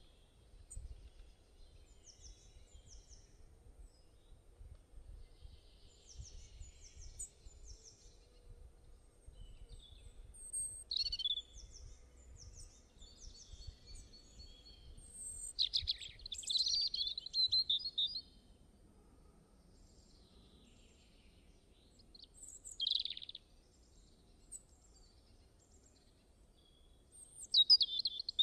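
Several songbirds calling and chirping, with short high-pitched notes and trills scattered throughout; the loudest are a run of trills about halfway through, a single call a few seconds later and a burst near the end. A faint low rumble of outdoor background noise sits beneath.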